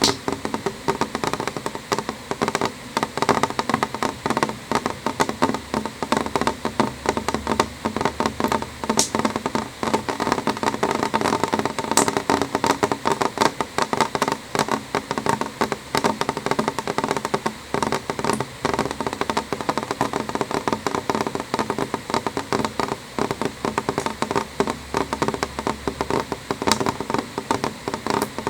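Rain falling on a window pane: a dense, steady run of small drop taps on the glass, with a few sharper single drops standing out.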